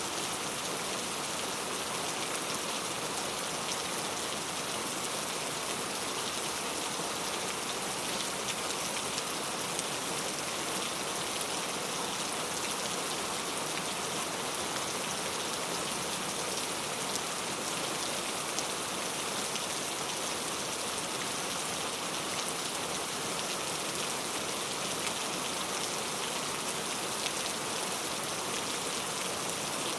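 Heavy rain falling steadily, a dense hiss of countless drops striking hard surfaces, with fine patters of individual drop hits.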